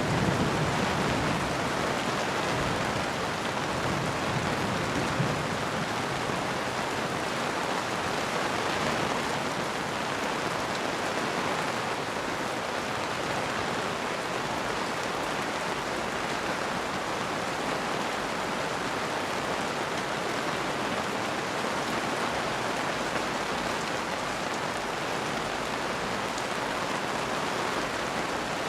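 Steady rain falling on surfaces, a dense even hiss, with a slight low rumble in the first few seconds.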